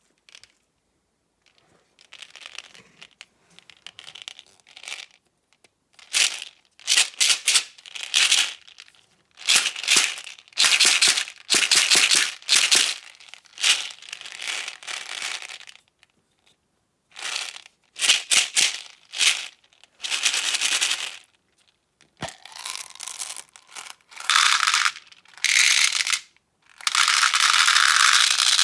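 A run of close-up ASMR trigger sounds of objects being handled: rustling, rattling and clicking in separate bursts from a fraction of a second to a few seconds long, with short pauses between them.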